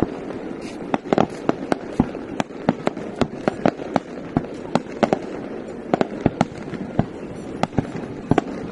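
Fireworks going off in a quick, irregular string of sharp bangs, several a second, over a steady wash of noise.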